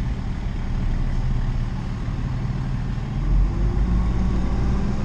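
Diesel engine of a Mack garbage truck running, heard from inside the cab, with a steady low rumble; about three and a half seconds in the engine note swells and a low steady hum joins it.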